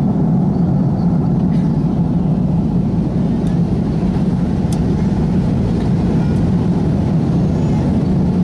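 Airbus A330 airliner after takeoff: a steady low rumble of engines and rushing air at an even level.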